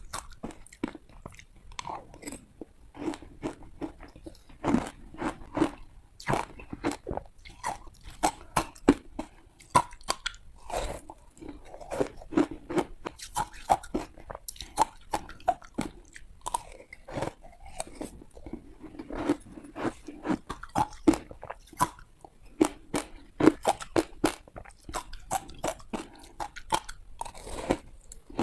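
Ice being bitten and crunched between the teeth, close to the microphone: a steady run of sharp, irregular cracks and crunches.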